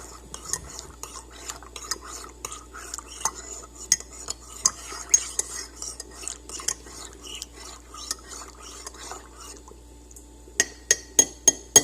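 A metal spoon stirring in a cup of tea, clinking and scraping against the cup. The stirring stops, and then the spoon clinks sharply against the cup about five times in quick succession near the end.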